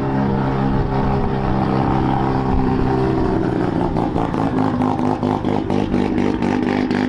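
Car engine and exhaust running at low revs, steady at first, turning into a rapid choppy pulsing from about four seconds in.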